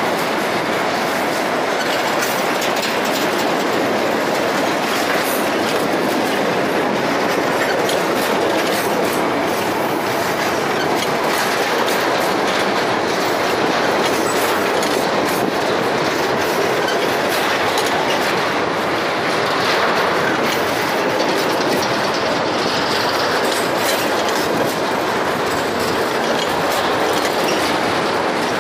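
Loaded freight wagons (boxcars and hopper cars) rolling past close by: a steady rumble of steel wheels on rail with the clickety-clack of wheels crossing rail joints.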